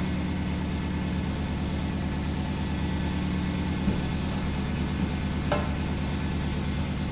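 Chevrolet El Camino engine idling steadily just after a cold start, having sat unstarted for a couple of weeks.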